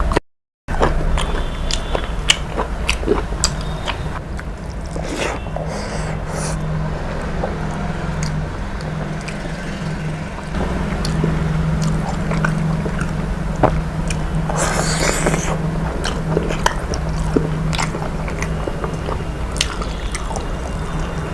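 Close-up eating sounds: a person chewing, with frequent small mouth clicks and smacks, over a steady low hum. The sound drops out for a moment just after the start, and a brief hissing, rustling noise comes about fifteen seconds in.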